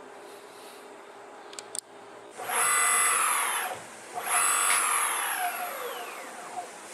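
Brushless DC motor of an Exway X1 electric skateboard, fitted with new bearings, spinning its wheel up in two short runs after a few faint clicks. The first run stops fairly abruptly; the second whines down in pitch as it slows.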